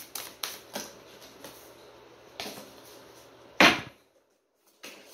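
Oracle cards being shuffled by hand: a few soft card clicks, then one loud sharp slap of the deck about three and a half seconds in, after which the sound drops out for a moment.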